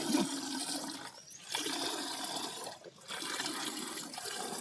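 Water pouring and splashing in a steady rush, broken by two short pauses: one about a second in, the other near three seconds.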